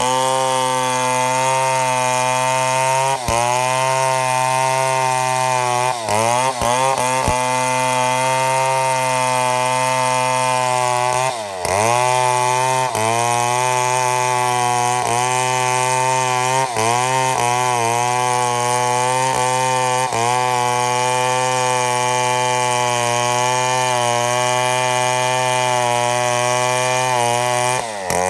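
Chainsaw running at high revs under load while milling a mahogany log lengthwise into slabs. The engine pitch dips briefly and recovers several times as the cut loads it.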